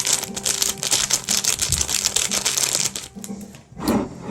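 Plastic food packet crinkling and tearing in rapid crackles as it is worked open by hand, dying down about three seconds in, followed by a single knock near the end.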